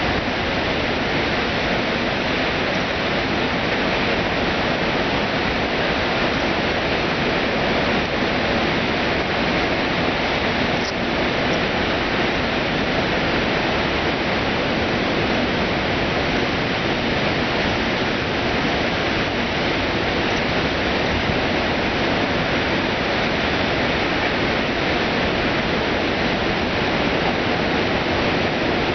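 Floodwater pouring over a half-built dam wall: a loud, steady rush of falling water.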